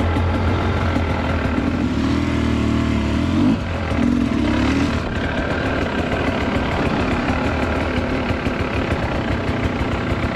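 Dirt bike engine running at low, easy revs on a slow ride over a slick trail. It holds a steady note for the first few seconds, then turns rougher and uneven, with the throttle on and off.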